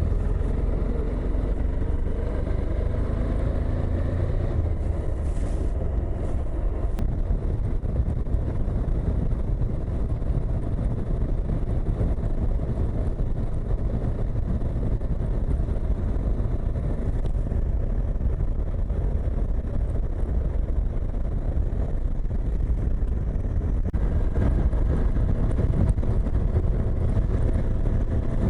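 Suzuki V-Strom motorcycle riding at a steady speed: the engine's low rumble under a heavy rush of wind across the microphone.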